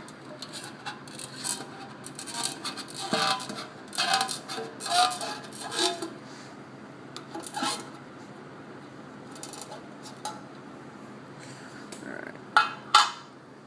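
Sealed metal can of Chem-Dip carburetor cleaner being worked open: irregular metal scrapes, clinks and knocks, then two sharp clicks near the end.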